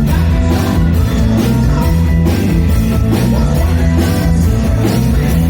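Rock band playing live: electric guitar, bass and drum kit, with the drums keeping a steady beat.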